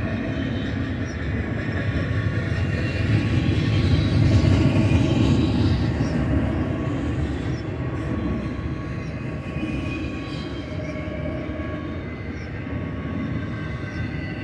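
Double-stack intermodal well cars of a freight train rolling past: a steady rumble of steel wheels on the rails, with faint high-pitched ringing over it.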